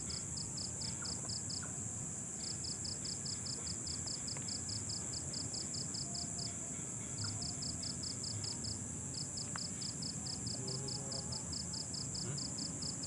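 Night insects calling: a steady high-pitched trill under a cricket-like chirping of about five pulses a second, which stops briefly a few times.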